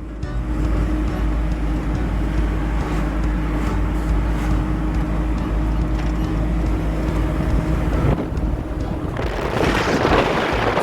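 Car travelling along a road: a steady engine and road rumble, with a louder rush of noise near the end.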